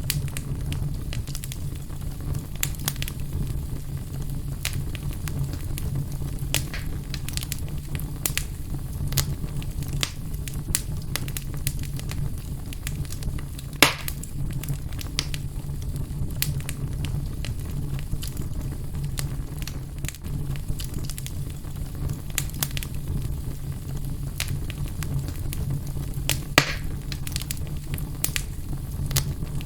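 Wood fire burning in a fireplace, crackling with irregular pops over a steady low rumble. Two pops stand out as louder, one about midway and one near the end.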